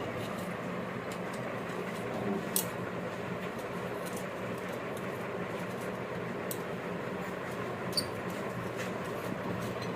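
A steady machine hum with a few light clicks and taps.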